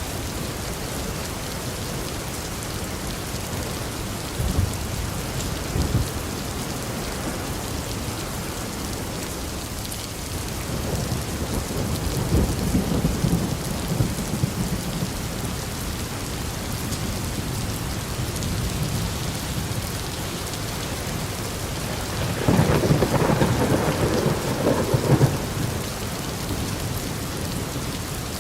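Steady heavy rain hissing, with thunder rumbling several times; the loudest roll comes about three-quarters of the way through.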